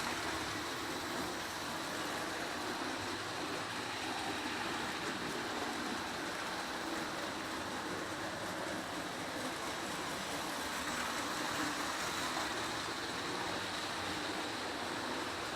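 Electric model trains running on a test layout: a steady whir of small motors and wheels rolling on track, without a break.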